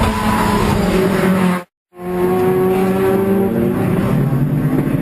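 Loud, high-revving sports car engine running hard, its note holding fairly steady. The sound cuts out completely for a moment about two seconds in, then a similar engine note resumes.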